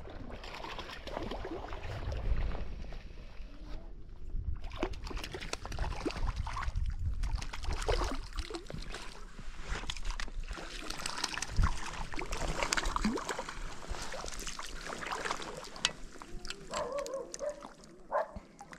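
Water splashing and sloshing with scattered knocks and rustles as a hooked brook trout is landed and handled at the water's edge.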